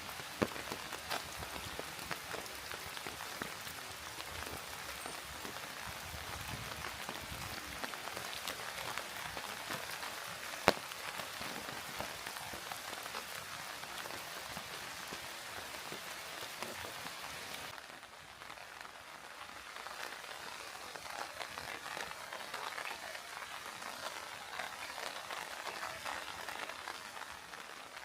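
Steady rain falling, with many small drops ticking close by and a single sharp tick about ten seconds in. From about two-thirds of the way through, the rain sounds softer and duller.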